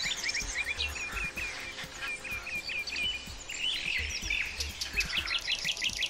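Small songbirds chirping: a run of short, repeated chirps at about four a second, then a quick rapid series of higher notes near the end.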